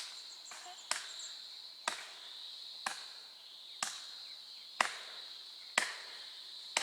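Sharp chopping strikes, evenly about once a second, over a steady high insect drone.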